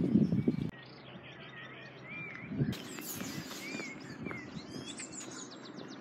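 Wild songbirds singing: scattered chirps and short whistles that rise and fall, then quick high trills about five seconds in. It opens with under a second of loud low rumble that cuts off suddenly.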